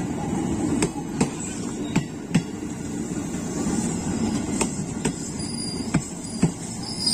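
JR 205 series electric commuter train passing, its wheels clacking over a rail joint in pairs, four pairs in all, over a steady rolling rumble.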